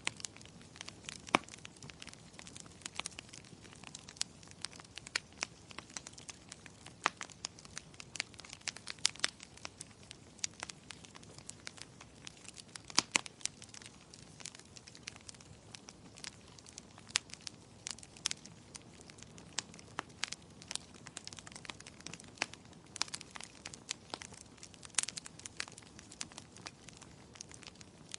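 Fire crackling in a fireplace: irregular sharp pops and snaps over a soft steady hiss.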